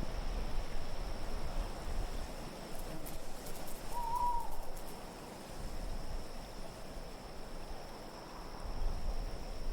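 Low, steady wind ambience with one short hooting call about four seconds in.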